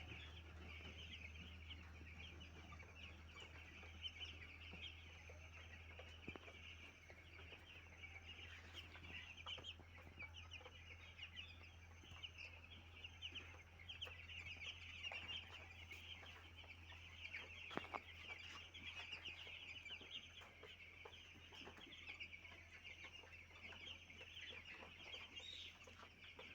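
A flock of young chicks peeping all together: a dense, unbroken chorus of short high chirps over a low steady hum.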